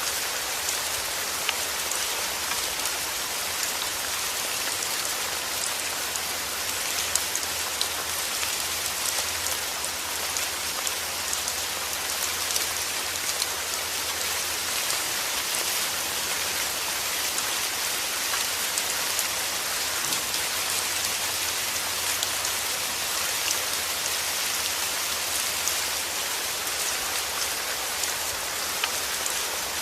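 Steady heavy rain: a dense, even hiss with many fine drop patters.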